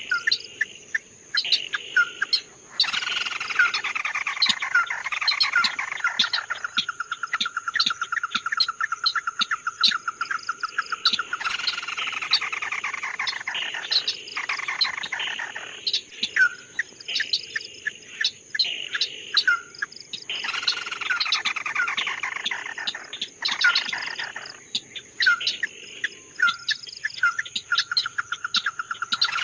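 Songbird, the bird called "chim mắt đỏ" (red-eyed bird), singing repeated phrases: a cascade of descending whistled notes that runs into a fast rattling trill, with short sharp chirps in between. A steady high buzz runs underneath.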